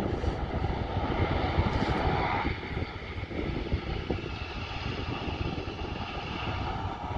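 Jet airliner engines running with a steady rush and a whining tone that fades about two and a half seconds in, with wind buffeting the microphone.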